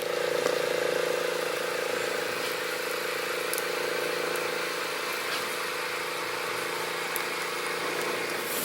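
A steady mechanical hum with an even hiss, holding one pitch throughout.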